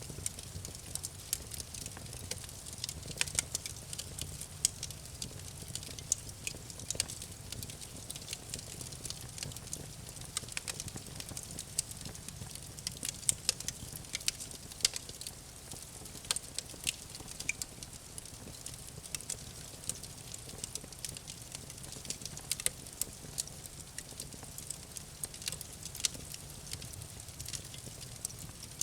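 Campfire burning, wood crackling and popping in many sharp, irregular snaps over a low steady rumble of flames.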